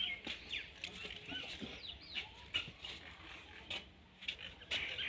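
Faint chirps of small birds in the background, with a few light clicks and taps.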